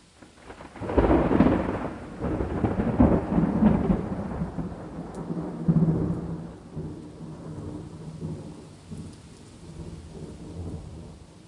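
Thunder: a sudden loud peal about a second in, rolling on in several heavy rumbles and then fading to a low rumble over the following ten seconds, over faint steady rain.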